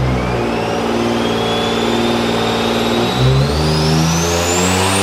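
Turbocharged Nissan 370Z's 3.7-litre V6 under full load on a dyno pull, the engine note climbing with a turbo whistle rising steadily in pitch and a change in the engine note about three seconds in. The engine is still breaking up slightly at the top of the run, an ignition misfire put down to the spark plugs or coil packs.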